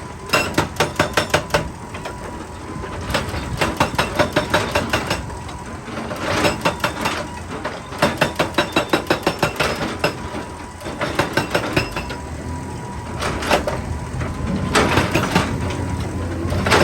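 Excavator-mounted hydraulic rock breaker hammering rock in bursts of rapid blows, about five or six a second, with short pauses between bursts, over the machine's steady engine hum.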